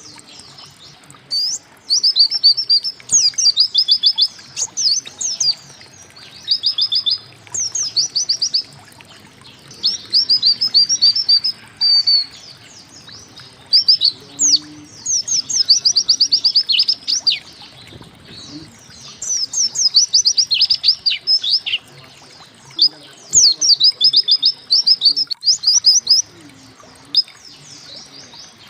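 White-eye (pleci) singing in repeated bursts of rapid, high chirping notes. Each burst lasts a second or two, with short pauses between them.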